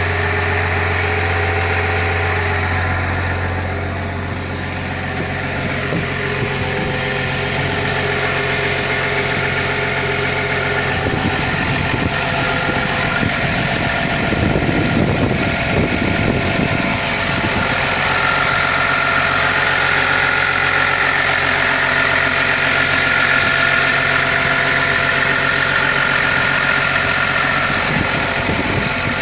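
Diesel engine of a Caterpillar 320 long-reach excavator running steadily. About 11 seconds in, the low drone changes and the sound grows rougher and a little louder. From about 18 seconds on, a steady high whine runs over it.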